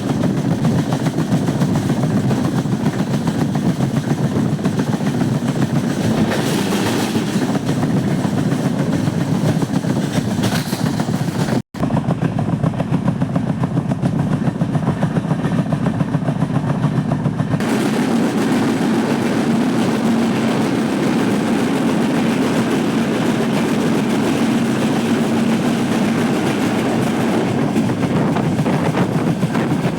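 Moving train running along the track, a steady, loud rumble and rattle. It breaks off abruptly for an instant about twelve seconds in and comes back with a somewhat different tone, a steadier hum joining it a few seconds later.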